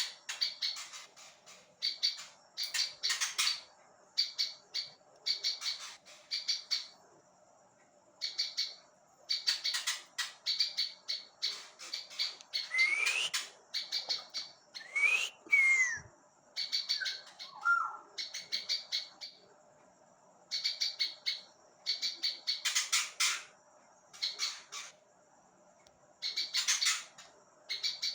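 Ciblek ilalang, a prinia, singing continuously: bursts of rapid, high chirping notes about a second long, repeated with short pauses. A few sliding whistled notes come midway through.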